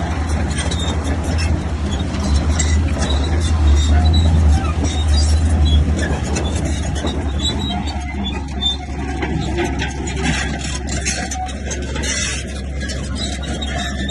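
Bulldozer's diesel engine running with a steady low rumble, with scattered clanking on top; the sound thins somewhat about eight seconds in.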